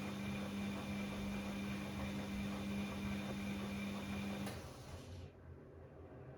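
Bosch Classixx 6 washing machine tumbling its drum during the heating stage of a 90 °C cottons wash, its motor running with a steady hum, then stopping with a click about two-thirds of the way in, leaving a low, quieter rumble.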